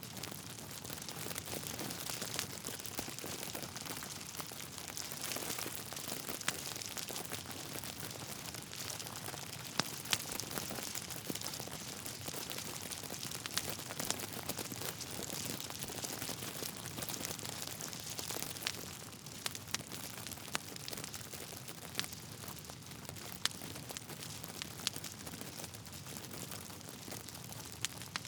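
Wood fire burning in a fireplace: a steady hiss of flames with irregular crackles and sharp pops from the logs.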